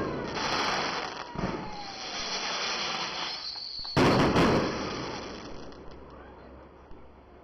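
Fireworks exploding: a bang about a second and a half in and a louder one about four seconds in, each trailing off slowly.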